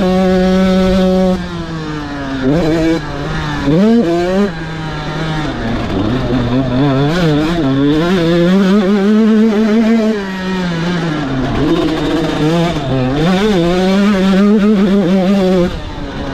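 Motocross bike engine revving high, then the throttle is shut a little over a second in. It gives quick sharp blips around three to four seconds in, then the revs keep rising and falling as the bike rides on, dropping off near the end.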